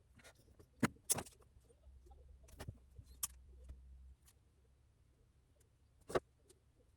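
A few sharp small clicks and taps at irregular intervals, the loudest about a second in and near the end, over a faint low hum in the middle.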